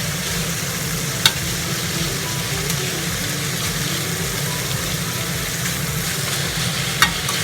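Pork and kimchi frying in a pan, with a steady sizzle. Two sharp clicks cut through it, about a second in and near the end.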